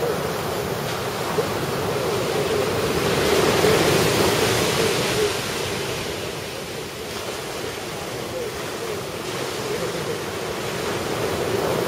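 Ocean surf: a steady wash of breaking waves that swells about three to five seconds in, eases, and builds again near the end.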